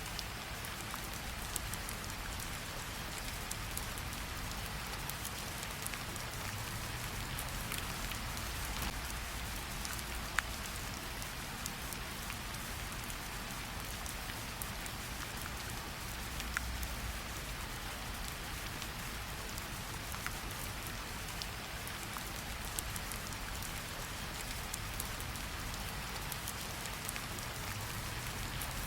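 Steady rain falling, an even hiss with a few sharper individual drop ticks here and there.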